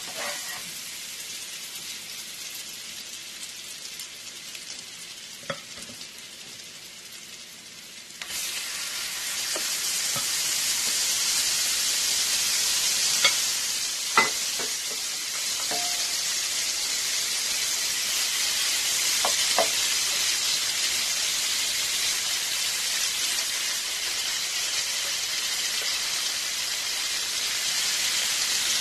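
Butter and crushed garlic sizzling in an electric skillet, then raw shrimp frying in it: the sizzle jumps suddenly much louder about eight seconds in and stays a loud, steady hiss. A few light spatula taps against the pan.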